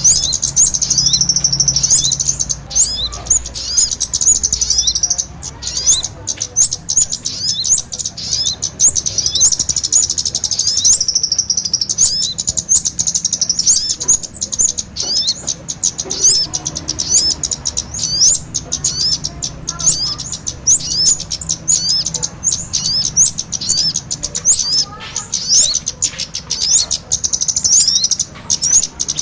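Bird-luring recording of small songbirds, kemade and sogon calls mixed together: dense, rapid, high-pitched chirps that overlap almost without a break.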